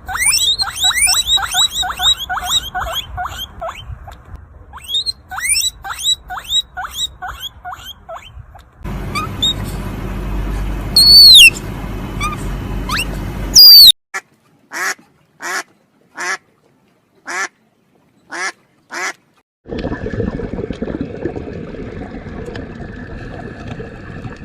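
Animal calls in several short clips joined by abrupt cuts: first fast runs of repeated short calls, then a noisier stretch with a few loud gliding cries, then single short calls with silence between them, then a steady background noise.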